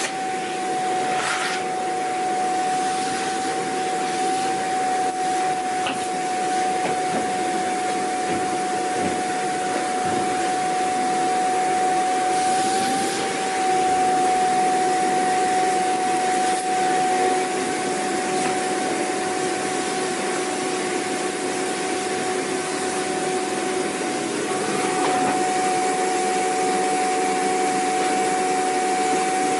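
Vacuum cleaner running steadily: a constant high motor whine over a rushing hiss of air, with small shifts in the lower hum as it works.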